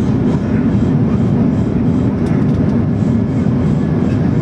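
Steady, loud rumble inside the cabin of a Boeing 737-400 during its landing: engine and airflow noise from the CFM56 engines, with faint rattles in the cabin.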